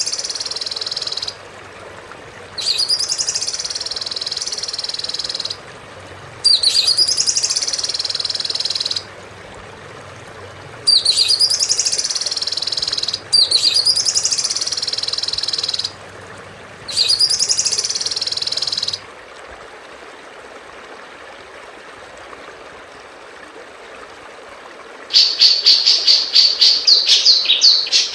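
Recorded songbird song played as a repeating loop for tutoring cage birds: six nearly identical high-pitched phrases, each opening with a sharp upward sweep, over steady background hiss. Near the end a different bird's rapid run of short, repeated chirps begins.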